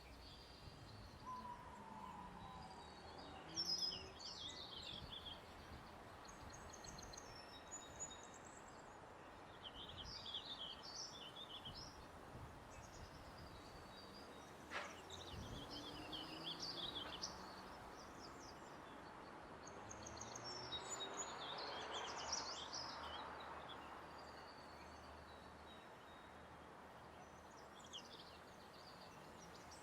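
Faint ambient soundscape: small birds chirping now and then over a soft, steady hiss. A single faint click comes about halfway through, and a gentle swell of noise rises and fades about two-thirds of the way in.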